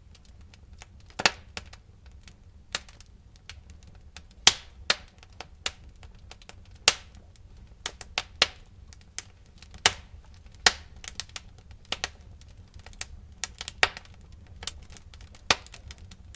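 Campfire wood crackling and popping: irregular sharp snaps, a few of them loud, over a faint low rumble of the burning fire.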